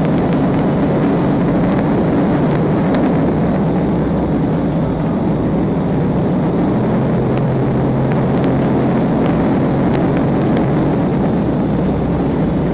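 Police patrol car driving fast, with a steady, loud mix of engine and road noise heard from inside the car.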